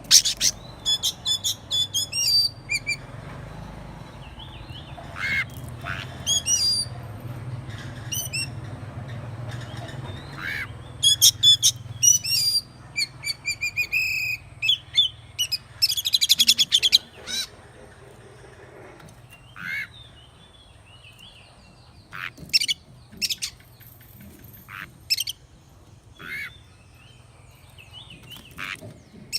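Oriental magpie-robin singing: varied phrases of clear whistles, sweeping notes and quick chattering notes, dense at first and thinning to scattered phrases with pauses in the second half.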